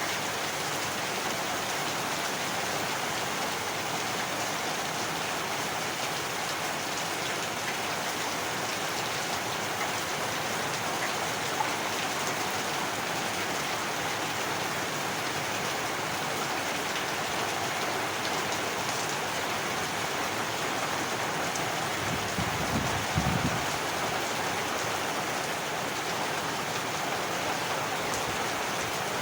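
Steady heavy rain falling. About three-quarters of the way through there is a short low rumble.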